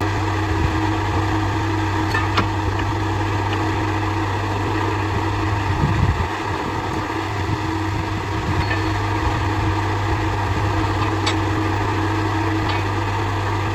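Machinery running steadily with an even low hum and a few light clicks.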